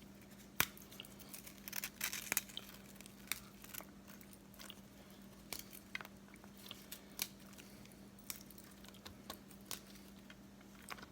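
Graham crackers being snapped into pieces and set down in a pan: scattered crisp cracks and clicks, the sharpest about half a second in and around two seconds in.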